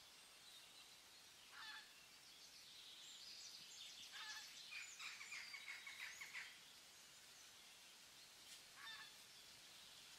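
Faint bird calls over near silence: one short call early, a busier run of chirps in the middle, and another short call near the end.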